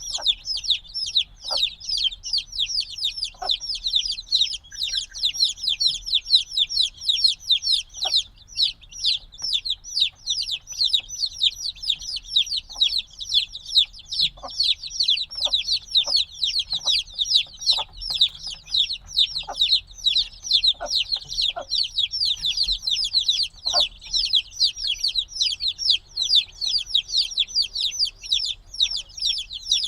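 A brood of chicks a few days old peeping loudly and without pause, many high downward-sliding chirps overlapping, with a few faint taps underneath. Such loud, constant peeping is typical of young chicks calling for warmth.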